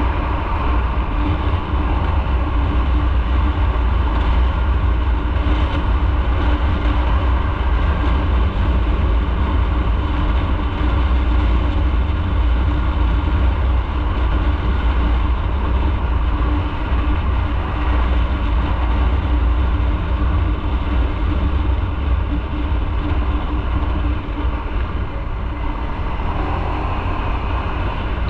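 Motorcycle being ridden at a steady pace: engine running under a constant rumble of wind and road noise.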